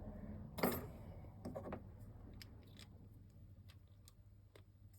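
Clicks and light taps of small parts and tools being handled during a spring swap: one sharper click under a second in, then a few fainter ticks.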